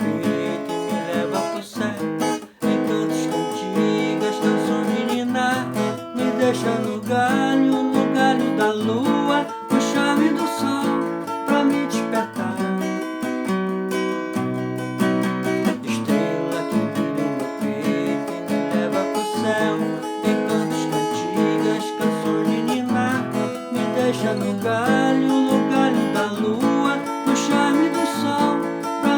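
Acoustic guitar playing a song, strummed and plucked in a steady accompaniment.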